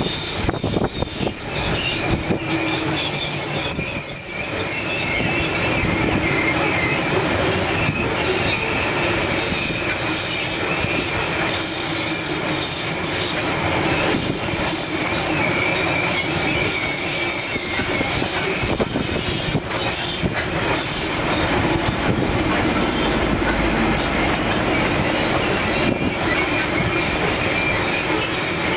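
Long narrow-gauge freight train of loaded covered hopper wagons rolling past close by. Its steel wheels squeal with a steady high whine and clack over the rail joints in a continuous rumble.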